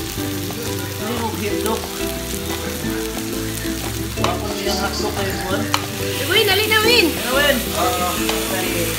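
Marinated beef sizzling steadily on a tabletop grill pan, with music-like held tones underneath.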